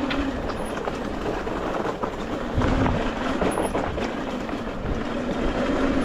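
ETM RTR electric dirt bike ridden over rocky ground: a motor whine that comes and goes with the throttle over a steady clatter of chain, frame and tyres on the rocks.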